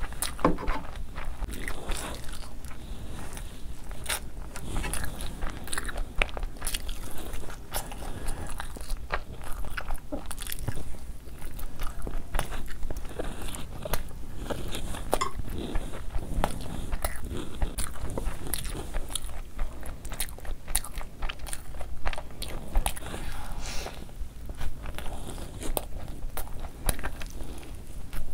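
Close-miked eating: steady chewing with frequent crunchy, crackly bites.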